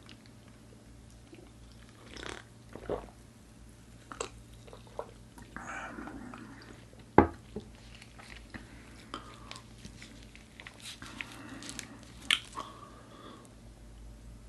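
Close-miked mukbang eating sounds: scattered clicks, knocks and mouth noises of drinking cola and biting into food. The loudest is a sharp knock about halfway through, with another near the end.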